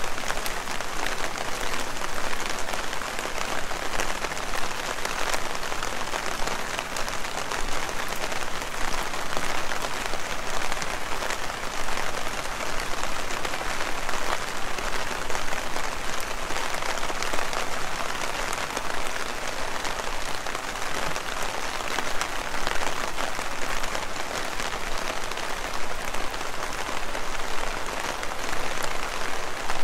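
Heavy rain falling steadily, a dense hiss of drops with a fine, even patter.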